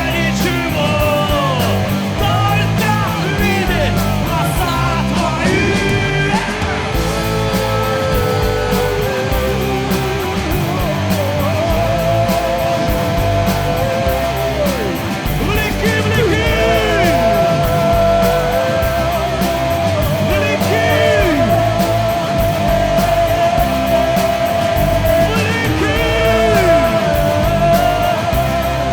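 Rock-style worship band music with drums and electric guitar, and a voice sliding through long held notes.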